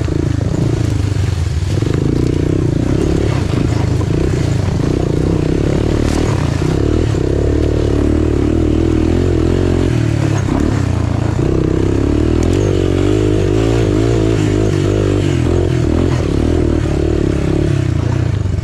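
Off-road engine running under load on a rough trail, its pitch rising and falling with the throttle, with clatter from the machine bouncing over the ground.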